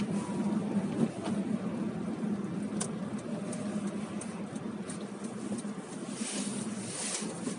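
Car driving on a snowy road, heard from inside the cabin: a steady engine hum under tyre and road noise, with the hiss swelling briefly near the end.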